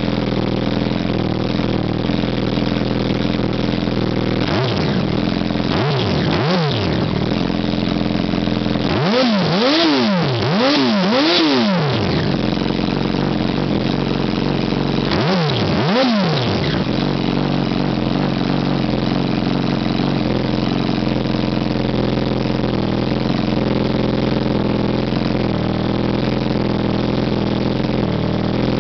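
2008 Yamaha R1's inline-four engine idling through a Two Brothers Racing slip-on exhaust, with short throttle blips: a couple about five to six seconds in, a quick run of four around ten seconds, and two more around fifteen seconds, each climbing and dropping straight back to idle.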